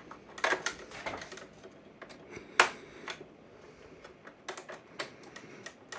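Slot screwdriver working at tight screws in a plastic phone housing: irregular clicks and scrapes of metal on the screw heads and plastic, with one sharp knock about two and a half seconds in.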